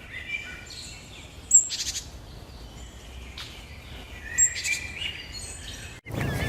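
Small birds chirping and calling: short high whistled notes with sharper, louder chirps about a second and a half in and again past the middle.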